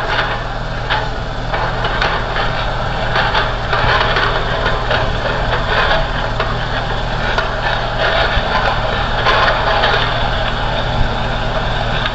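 A JCB backhoe loader's diesel engine running steadily, with scattered knocks and clatter over it.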